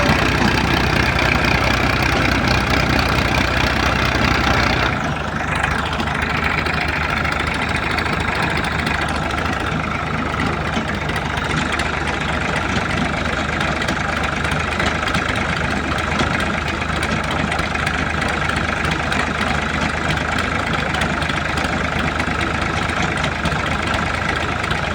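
Tractor engine running steadily; about five seconds in its note changes and it becomes slightly quieter.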